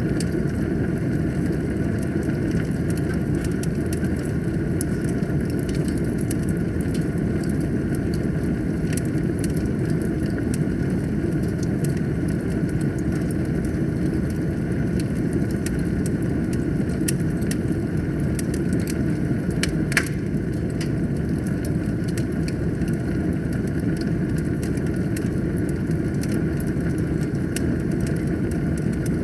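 Wood fire burning in a fireplace: a steady low roar of flames with frequent small crackles and snaps, and one sharper pop about two-thirds of the way through.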